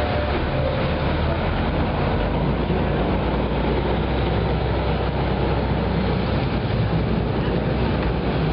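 Steady low engine rumble under a constant hiss of noise, unchanging throughout.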